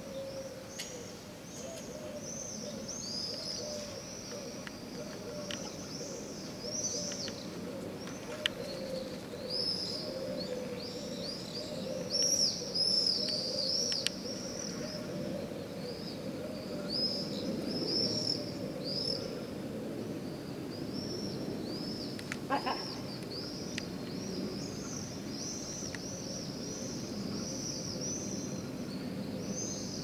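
Birds chirping, many short high chirps repeating in quick runs, over a steady low hum.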